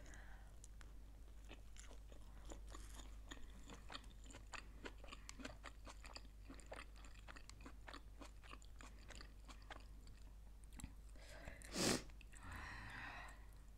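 Food being chewed close to the microphone: faint, soft crunching and wet mouth clicks throughout, with one brief louder noise near the end.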